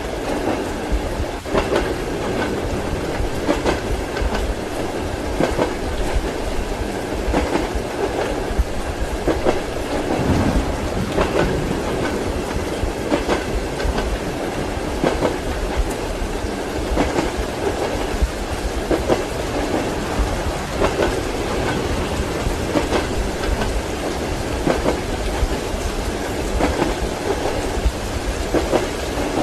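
Passenger train wheels clacking over rail joints in a steady repeating rhythm, heard from inside a compartment, over a continuous hiss of rain. There is a brief low rumble about a third of the way through.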